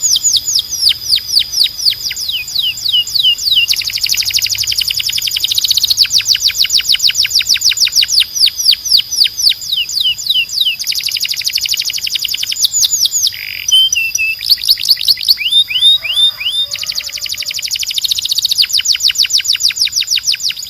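Timbrado canary singing a long, loud song of fast runs of repeated down-slurred notes, with a few slower, separate notes about two-thirds of the way through before the fast runs resume.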